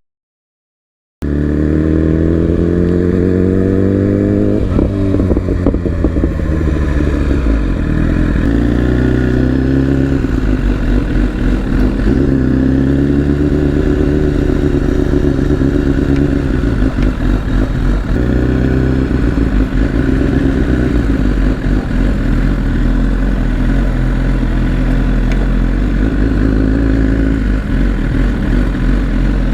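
Sport motorcycle engine accelerating, its pitch climbing and dropping back at each upshift, then running at a steady cruise. It comes in abruptly after about a second of silence.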